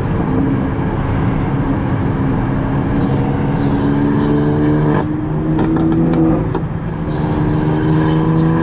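Car engine accelerating, its pitch climbing steadily and dropping at gear changes about five seconds in and again about seven seconds in.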